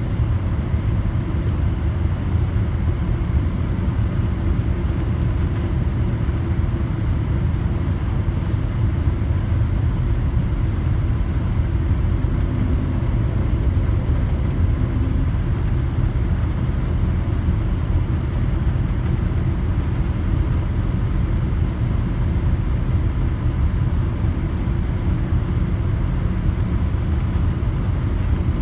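Steady low rumble of engine and airflow noise inside the cabin of a Qantas Boeing 787-9 in flight, with a faint steady hum above it.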